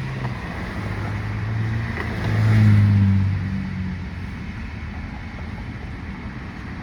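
Road noise inside a moving car on wet roads: a steady low rumble with tyre hiss, and a low droning hum that swells to its loudest about two to three seconds in, then fades.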